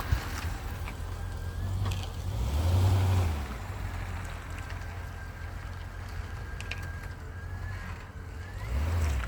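Volvo S80's 4.4-litre V8 running with a low exhaust rumble, revved briefly twice: once about three seconds in, the louder of the two, and again near the end.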